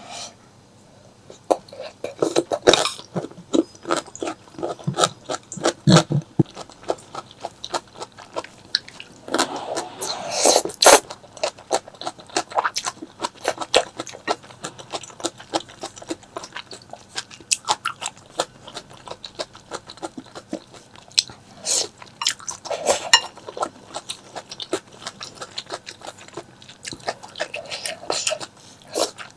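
Close-miked chewing and biting of food, with a dense run of small wet clicks and crunches, and a few louder, longer mouthfuls about a third of the way in and again near the end.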